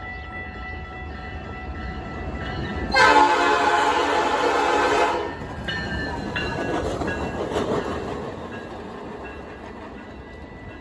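Metra commuter train passing, its horn sounding one loud blast of about two seconds a few seconds in, then wheels rumbling and clattering as the train goes by and fades.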